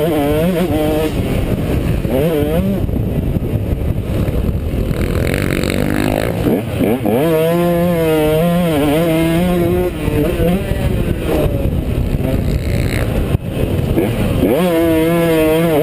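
Motocross dirt bike engine revving up and down through the gears, its pitch climbing in sharp rises and wavering as the throttle opens and closes.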